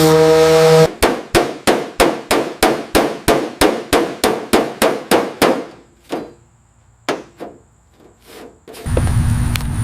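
Rapid metallic clanging, like hammer blows, about three to four strikes a second for some five seconds, then a few scattered knocks. Near the end a steady low engine-like rumble starts.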